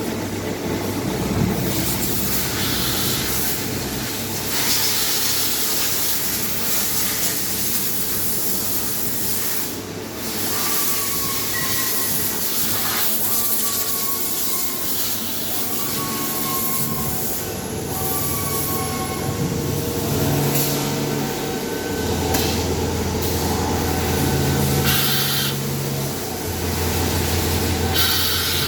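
Retrofitted Hyundai CNC machine with Yaskawa servo drives and motors running: a steady mechanical hiss and hum. Low steady tones start and stop in steps over the second half, with a few short falling whines in the middle.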